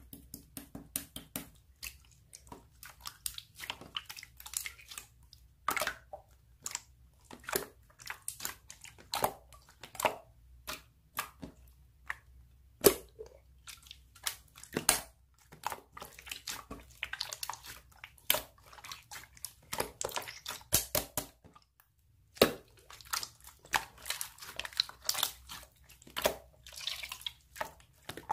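Slime being squeezed and poked by hand, making irregular wet clicks and sticky pops, with a short pause about three-quarters of the way through.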